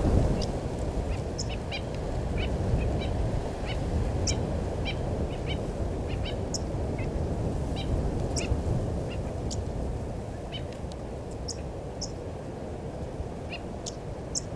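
Wild birds calling: many short, high chirps scattered irregularly over a steady low rumble.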